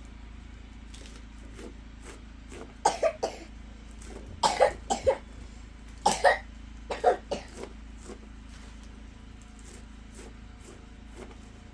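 A person coughing in several short fits of two or three coughs each, between about three and eight seconds in.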